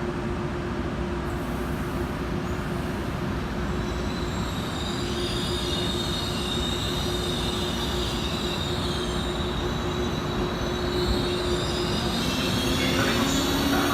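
Train rolling through the station with a steady low hum. High-pitched wheel squeal sets in about five seconds in, and the sound grows a little louder toward the end.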